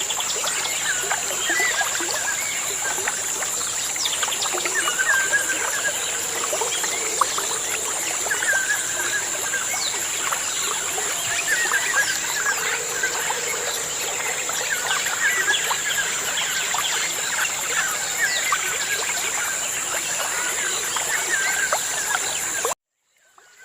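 Many small birds chirping at once, short rising and falling calls overlapping continuously over a steady high-pitched hiss. The sound cuts off abruptly near the end.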